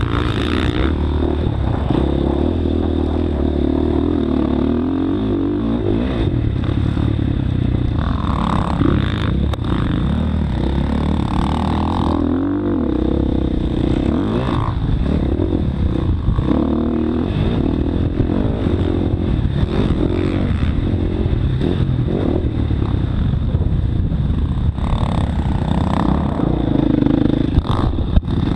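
Motocross dirt bike engine revving up and down as it is ridden around the track, with clattering knocks throughout.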